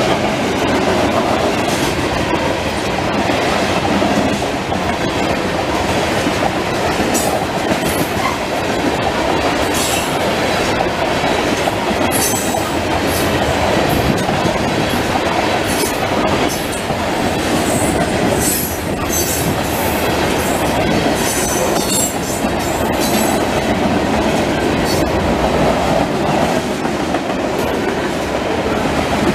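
Freight train cars (tank cars and boxcars) rolling past at speed: a loud, steady rumble of steel wheels on rail with clickety-clack from the trucks, and many brief high-pitched squeals and clicks from the wheels, most of them in the middle stretch.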